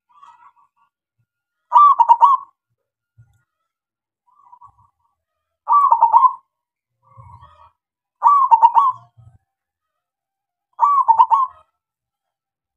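Male zebra dove (perkutut) singing: four loud rolling coo phrases a few seconds apart, each under a second long, with fainter, shorter coos between them.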